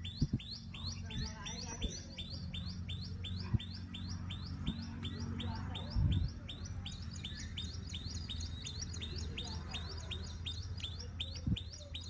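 A bird calling a rapid, steady series of short high notes, each sliding downward, about three to four a second, over a low steady hum. Two dull thumps come about halfway through and near the end.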